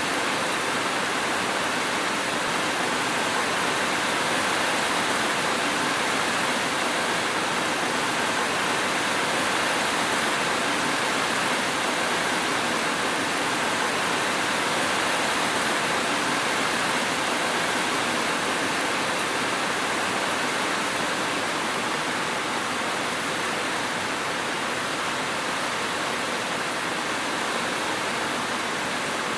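Steady, dense rainfall making an even hiss with no thunder and no separate drops.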